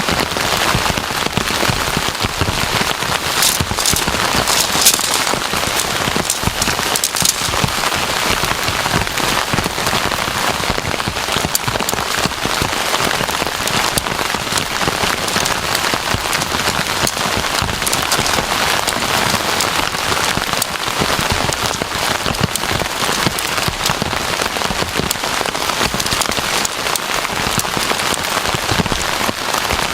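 Heavy rain pouring steadily, a dense patter of drops hitting a surface, with a few louder clusters of drops a few seconds in.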